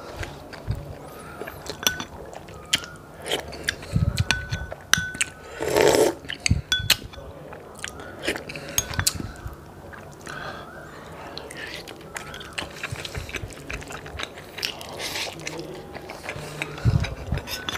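Close-up mukbang eating: a man chewing rice and beef with his mouth open, with wet smacks and many small clicks of lips and fingers. A louder rush of noise comes about six seconds in, and a couple of low thumps sound near the start and the end.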